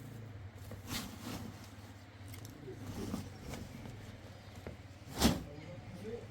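A few faint knocks and rustles over a low steady hum, with one sharp, loud knock about five seconds in.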